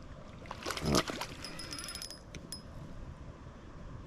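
Spinning reel being cranked and tackle handled while a small bass is brought in, with a brief louder rush of noise about a second in and a few sharp clicks a second later.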